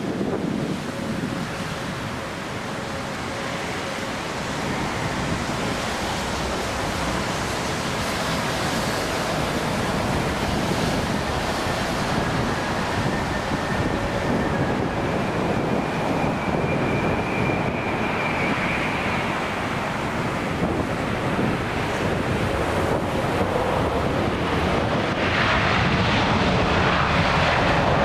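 Jet airliner engine noise: a steady roar with faint whining tones that slowly grows louder, mixed with wind buffeting the microphone.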